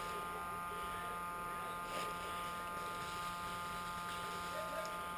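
A steady electrical hum with a high whine held on several fixed tones, under faint rustling and a soft knock about two seconds in.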